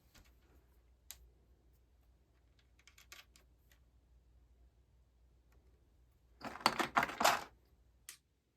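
Small hard objects being handled during a guitar setup: scattered light clicks, then a short rapid cluster of louder clicks and rattles lasting about a second, two-thirds of the way through.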